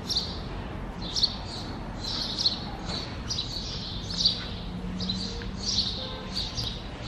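Small birds chirping over and over, short high chirps coming every half second or so.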